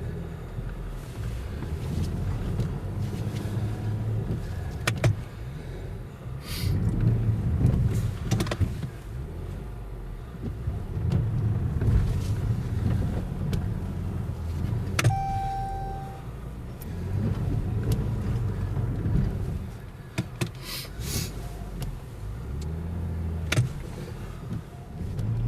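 Car engine revving in repeated surges as the car is driven through deep snow. A short beep sounds about halfway through.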